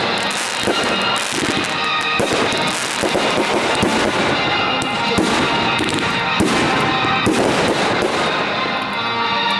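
Fireworks crackling and popping, many sharp cracks in quick succession without a break, with music playing underneath.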